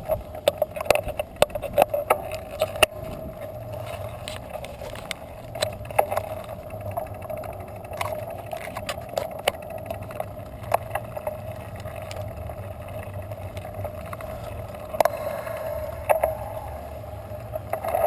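Bicycle being ridden: a steady hum with many sharp clicks and rattles, thickest in the first few seconds and again about fifteen seconds in.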